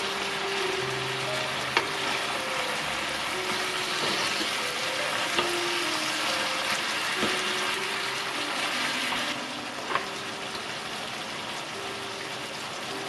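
Duck bulgogi sizzling in a nonstick frying pan as it is stirred with a wooden spatula, which knocks against the pan a few times; the sizzle gets quieter about nine seconds in. Soft background music with simple held notes plays underneath.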